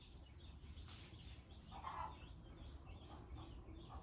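Faint bird chirps in the background with a low, near-quiet room, and one soft call about two seconds in.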